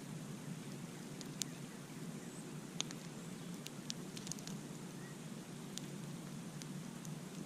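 Campfire burning: a steady low rush of flames with sharp, scattered crackles and pops from the burning wood.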